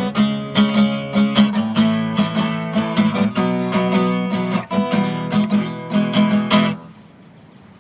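Acoustic guitar strummed in a steady rhythm, playing a song's closing chords, which stop abruptly near the end and leave only faint background hiss.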